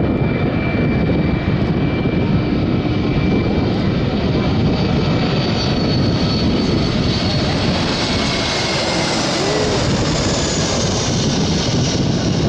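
Airbus A320 airliner's twin jet engines roaring steadily on a display flypast, with a faint high whine slowly falling in pitch.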